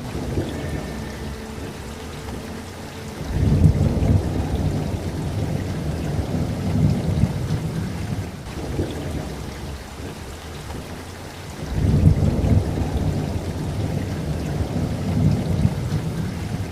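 Steady rain falling, with two rolls of thunder: one swelling up about three seconds in and another about twelve seconds in, each rumbling on for several seconds.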